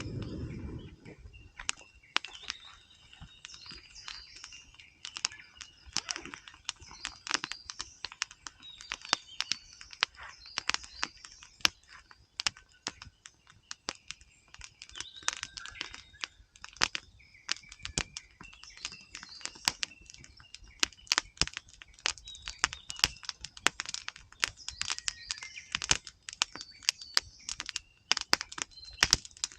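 Wood campfire crackling with frequent irregular sharp pops, while small birds chirp and sing.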